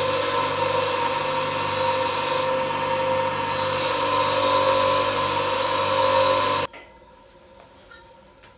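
A power tool running with a steady whine, cutting off suddenly near the end, followed by a few faint light clinks.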